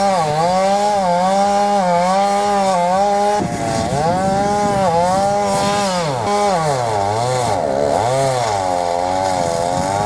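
Chainsaw running at high revs while cutting into a large trunk, its engine note dipping and recovering as the chain loads up in the wood. From about a third of the way in, the pitch sags much deeper and wavers as the saw bogs in the cut, then settles lower near the end.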